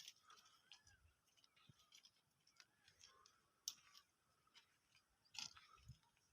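Near silence with faint, scattered clicks and ticks, two of them sharper about a third and four-fifths of the way through.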